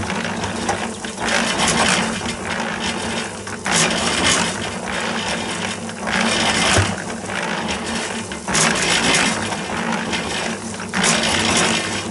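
Concrete mixer running, its drum churning a gritty concrete mix with a continuous rattle over a steady motor hum. The rattle surges about every two and a half seconds as the drum turns.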